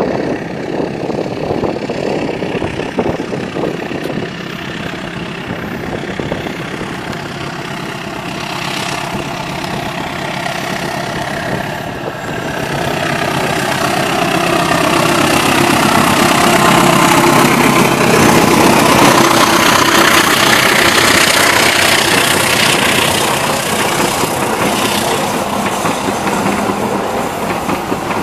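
Diesel locomotive hauling a passenger train approaching and passing close by: the engine's steady hum grows louder from about the middle and is loudest around two-thirds of the way through as the locomotive goes past, easing slightly as the coaches roll by near the end.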